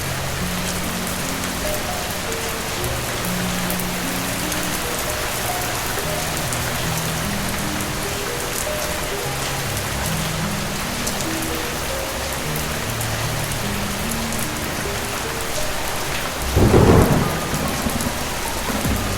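Steady rain falling, with a soft slow melody of held low notes under it. About seventeen seconds in, a loud clap of thunder breaks through and rumbles off over a second or so.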